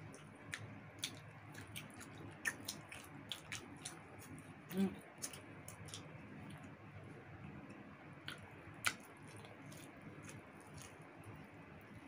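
Close-miked chewing and mouth sounds of people eating roast chicken with their hands: irregular wet smacks and clicks, with a short hum about five seconds in and one louder click near nine seconds.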